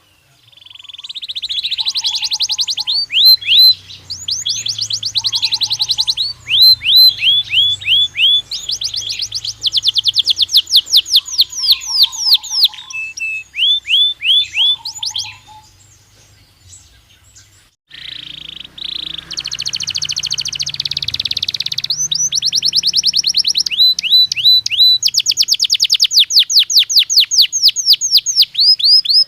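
Belgian canary singing: fast trills of repeated down-sweeping notes, broken by a short pause a little past the middle before the song resumes.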